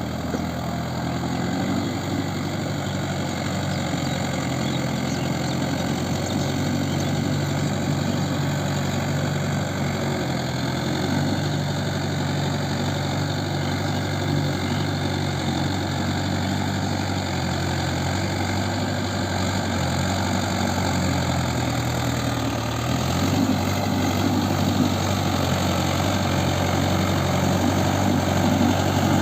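Mahindra Yuvo 575 4WD tractor's four-cylinder diesel engine running steadily. Its note shifts slightly about eleven seconds in and again about twenty-two seconds in, and it grows a little louder near the end.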